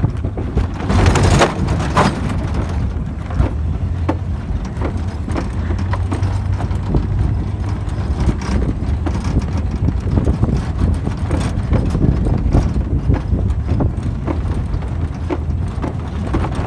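Truck driving slowly, its engine and tyres giving a low steady rumble, with irregular knocks and clatter over it, loudest about a second in.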